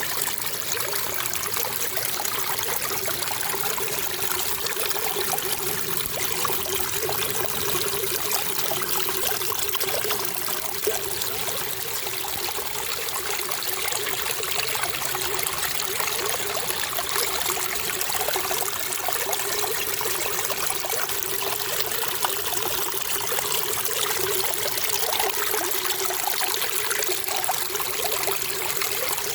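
Running water trickling and splashing steadily, with no pauses.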